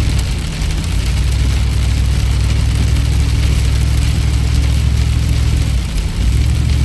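Car driving through heavy rain, heard from inside the cabin: a steady low engine and road rumble under an even hiss of rain and tyre spray, with a brief dip in the rumble near the end.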